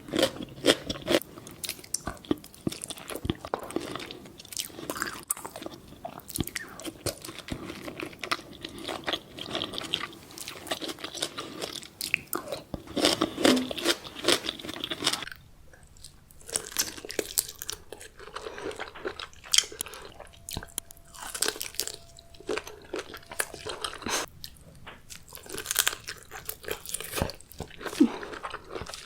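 Close-miked mukbang eating of seafood: repeated crunching bites and chewing, a dense run of sharp crackles.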